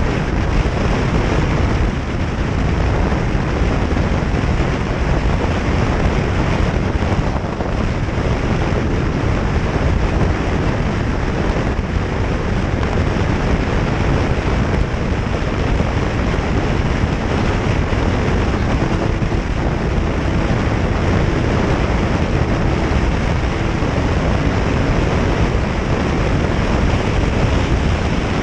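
Loud, steady rush of wind over the microphone of a camera on a moving motorcycle, covering any engine or road sound.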